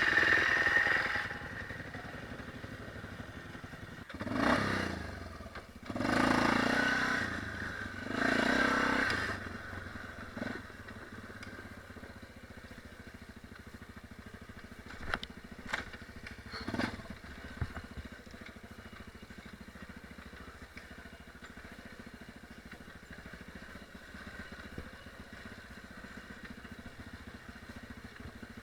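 Dirt bike engine: loud at first, then three short bursts of throttle, then running quieter and steadier. A few sharp knocks or clatters come about halfway through.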